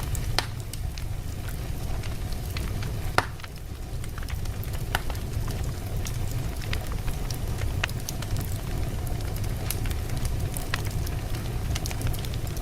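Wood logs burning in a fireplace: a steady low rumble of the flames with frequent sharp crackles and pops of the burning wood, one louder pop about three seconds in.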